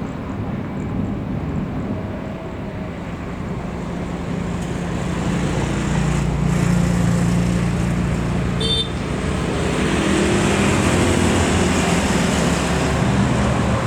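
Jet airliner engine noise that swells about halfway through and holds loud, mixed with road traffic.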